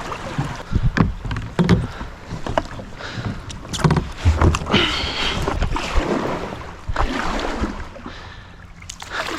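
Sit-on-top kayak being paddled down a shallow river: paddle blades splashing into the water with irregular knocks and thuds between the strokes.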